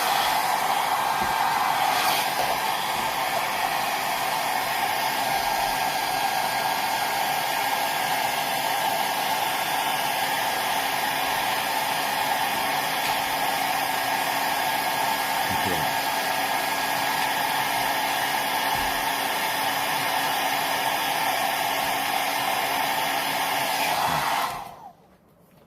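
Hot-air blower running steadily, drying a circuit board, with a faint steady whine under its rushing air; it switches off about 24 seconds in.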